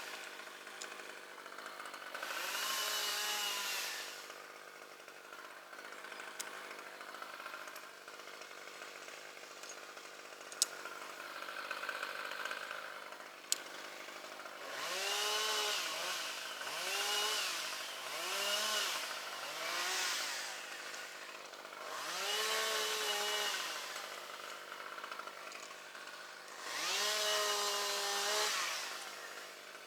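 Two-stroke chainsaw idling and revved up in about seven short bursts, its pitch climbing, holding and dropping back each time. Two sharp clicks come a few seconds apart near the middle.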